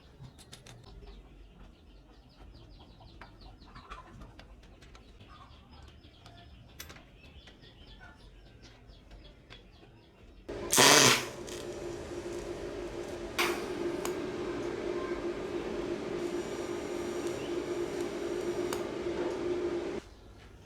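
Faint scattered ticks, then a sudden loud rush about ten seconds in, followed by a machine running with a steady hum for about eight seconds before it cuts off near the end.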